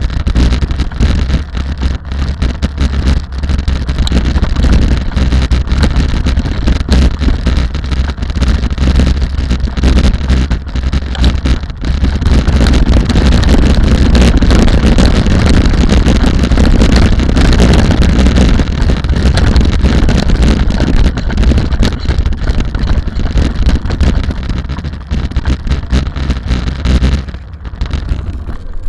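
Rally vehicle running, with heavy wind rumble on the microphone, the sound easing a little near the end.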